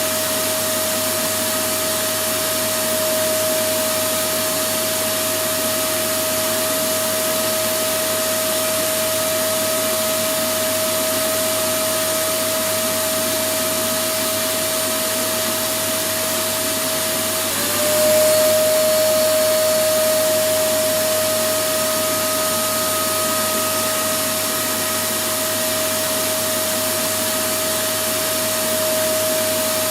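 Electric vacuum cleaner running continuously: a steady rushing airflow noise with a constant motor whine. A little past halfway the whine dips briefly in pitch and the sound swells slightly louder before settling back.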